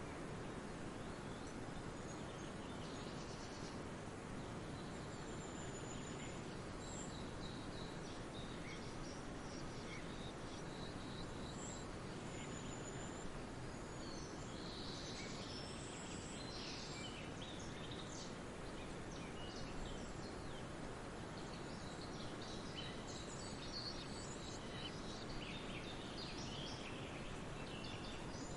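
Several small birds chirping and calling in short high notes, sparse at first and coming thicker from about halfway through, over a steady background hiss.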